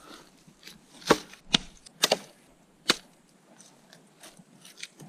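Wood being chopped: a string of sharp wooden knocks at an uneven pace, four loud strikes in the first three seconds and a few fainter ones after, as small trees are cut for a shelter wall.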